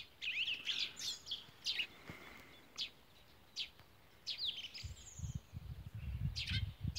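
Songbirds chirping and calling: short high chirps and quick sweeping notes scattered through, with a brief trill about five seconds in. A low rumble on the microphone joins in the second half.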